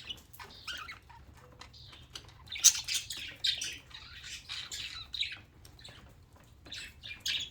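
Pet budgerigars squawking and chirping in short, irregular bursts of high-pitched calls, with the loudest squawk about two and a half seconds in.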